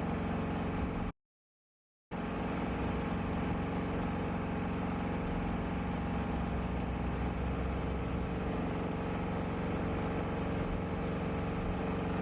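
An engine running steadily at an even speed. The sound cuts out completely for about a second shortly after the start, then picks up again unchanged.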